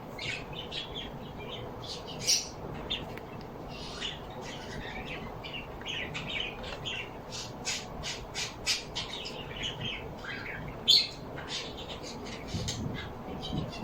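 Several birds chirping and squawking in a busy stream of short high calls, with two louder squawks, one about two seconds in and one near eleven seconds.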